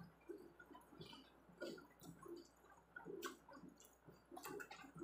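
A person chewing food with the mouth closed: quiet, irregular, wet chewing and smacking sounds with scattered small clicks.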